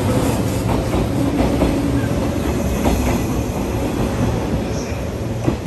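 Cars of a 485-series electric train rolling past close by as it pulls out of the station: a steady rumble of wheels on rail with a few clicks over rail joints.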